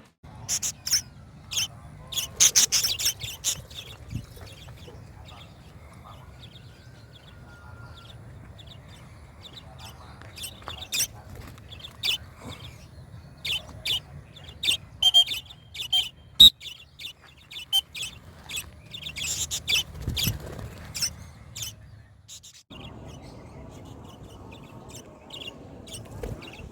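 Budgerigar (parakeet) chirping in short, scattered calls, with some brief sharp clicks among them, over a faint low steady hum.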